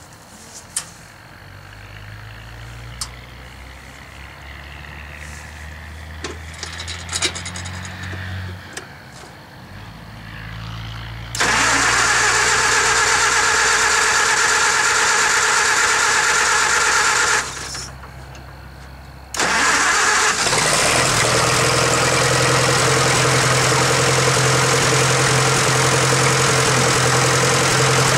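Oliver tractor engine cold-started after long sitting: a low hum and a few clicks, then the engine catches about eleven seconds in and runs loudly. It cuts out for about two seconds, then starts again and runs steadily.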